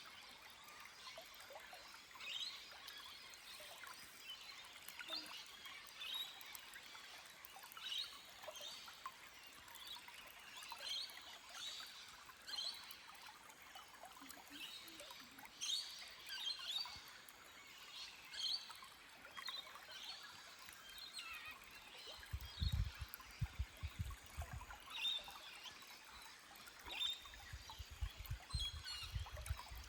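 Forest stream flowing over rock, a faint steady water sound, with small birds calling in short chirps throughout. From about two-thirds of the way in, bursts of low rumbling come and go and are the loudest sounds.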